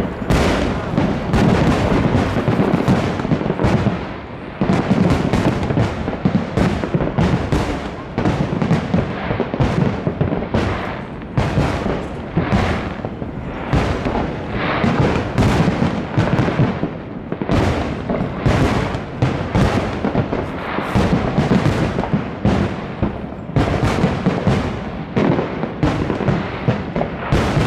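A big fireworks display in full swing: rapid, overlapping bangs and crackles of shells bursting, several a second with no let-up.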